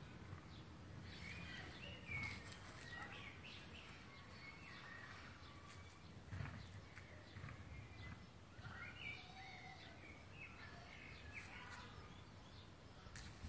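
A bird chirping and twittering faintly in short, warbling calls, in two spells: one in the first few seconds and another about two-thirds of the way in, over low background rumble.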